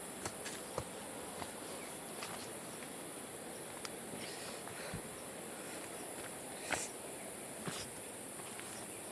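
Footsteps at an irregular pace, sharp scuffs and taps, over a steady high-pitched drone of insects.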